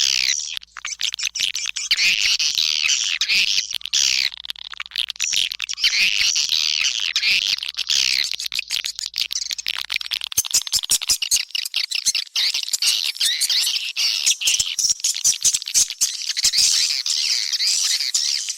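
Recorded swiftlet lure call: a dense, continuous twittering of many overlapping chirps. From about halfway, a rapid clicking rattle runs through it. This is the kind of call played in swiftlet houses to draw the birds in to roost and nest.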